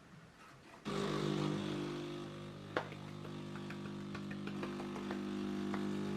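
Siemens EQ.300 bean-to-cup coffee machine running a brew cycle: a steady machine hum starts suddenly about a second in, with scattered clicks and one sharp click near the middle.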